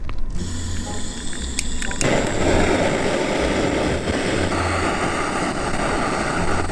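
Gas torch flame hissing steadily as it relights paper firewood made from newspaper, growing louder about two seconds in.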